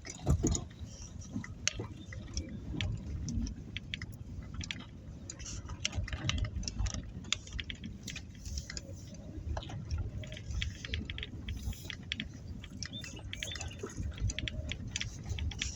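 Car driving slowly: a steady low rumble with many small irregular clicks and crackles throughout.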